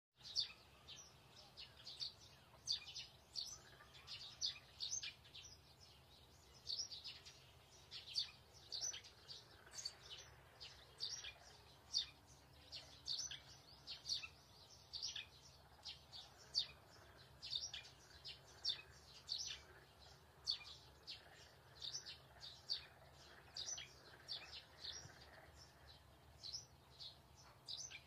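Birds chirping: short high chirps repeating about twice a second, over a faint steady low hum.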